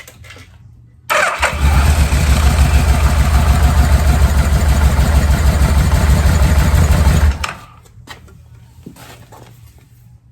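1986 Yamaha Venture V4 engine turned over on its electric starter for about six seconds without firing, an even rapid pulsing. This is cranking for a compression test on a cylinder that the owner suspects has a leaky or tight valve.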